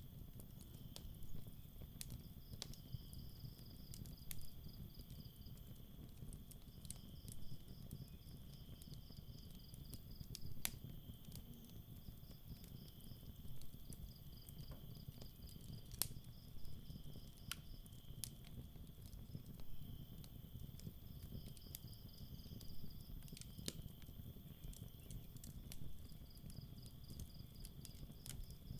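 Campfire crackling, with scattered sharp pops about every second or two, while crickets chirp at night: a steady high trill with short pulsed chirp trains repeating every few seconds.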